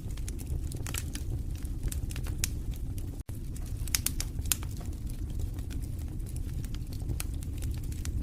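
Wood fire burning in a fireplace: a steady low rumble of flames with frequent, irregular sharp crackles and pops. The sound cuts out for an instant about three seconds in.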